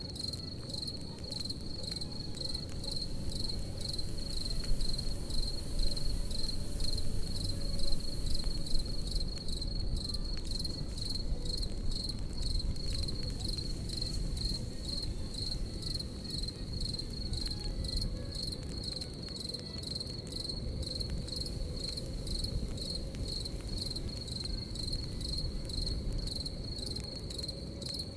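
Crickets chirping in a steady high-pitched pulse, over the crackle of a campfire with scattered pops and a low rumble; a few louder cracks come about five to nine seconds in.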